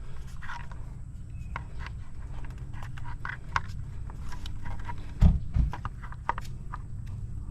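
Handling noise from fitting an outdoor floodlight fixture onto its mounting bracket: irregular small clicks and taps over a low rumble, with two loud low thumps about five seconds in.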